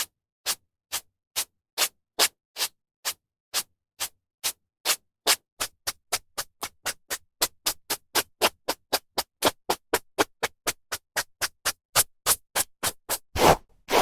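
Hairbrush strokes through hair: short swishes about two a second at first, quickening to three or four a second, with a longer, fuller stroke near the end.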